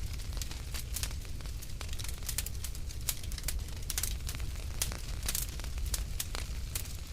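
Wood fire in a fireplace crackling, with many irregular sharp snaps and pops over a steady low rumble.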